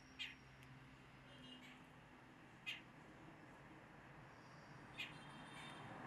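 Bird giving three short, high calls about two and a half seconds apart over a quiet background.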